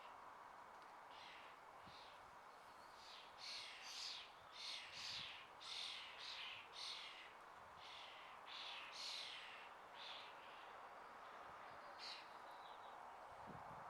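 Songbird chirping: a run of short, high calls repeated about twice a second, over a faint steady hiss of spring outdoor ambience.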